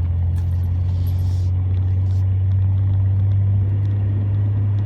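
Truck driving, heard from inside the cab: a steady low drone of engine and road noise.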